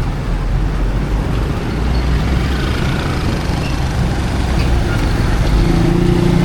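Street traffic with vehicle engines running steadily; one engine hum grows louder near the end.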